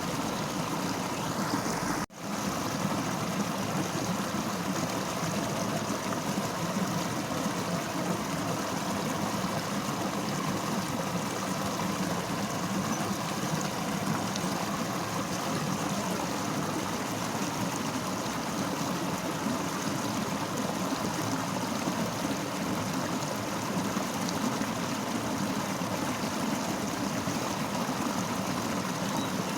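Fast-flowing river running steadily as a dense, even water noise, broken by one momentary dropout about two seconds in.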